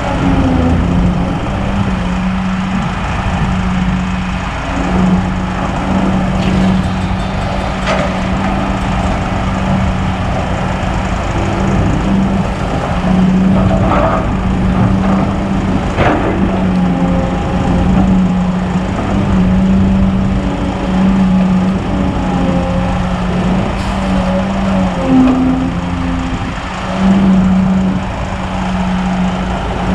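Diesel engine of a Kobelco SK200 hydraulic excavator running steadily, its pitch dipping and rising as the hydraulics take load, with a few sharp knocks in the middle.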